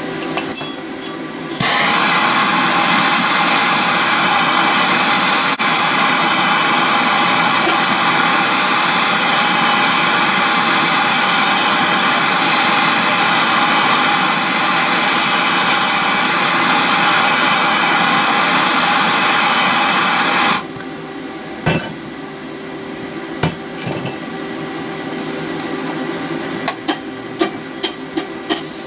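Stick welding with a 309 rod: the arc runs loud and steady for about nineteen seconds, starting about a second and a half in and cutting off suddenly. Around it there is a steady hum, with a few sharp clicks near the start and in the last seconds.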